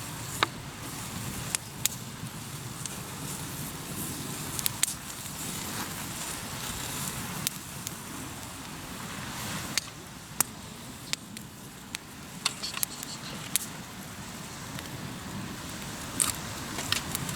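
Hardwood campfire crackling, with sharp irregular pops over a steady rushing hiss.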